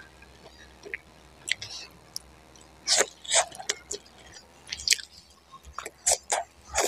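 Close-miked eating sounds: biting into a fried egg and chewing it, a run of short wet mouth clicks that are sparse at first and loudest and most frequent from about three seconds in.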